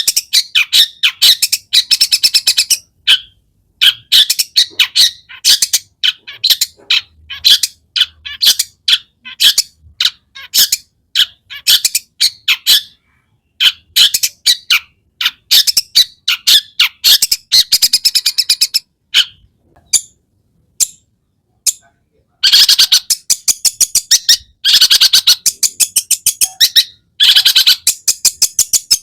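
Long-tailed shrike (cendet) singing a fast, chattering song of rapidly repeated high notes in bursts with short pauses, a song filled with imitated calls of other birds. The densest, loudest run of notes comes near the end.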